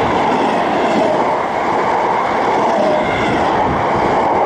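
South West Trains Class 455 electric multiple unit passing close by at speed: a loud, steady rush of wheel and rail noise as the carriages go past.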